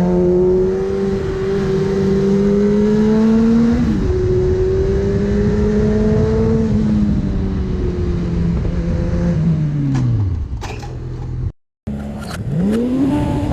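Motorcycle engine accelerating, its pitch climbing, with a quick gear change about four seconds in and a second climb, then the rider eases off and the engine note falls. Near the end the sound cuts out briefly, then an engine revs up again.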